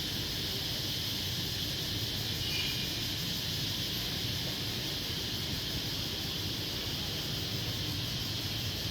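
Dense, steady dusk chorus of crickets, a continuous high shrill, over a low steady rumble of city traffic.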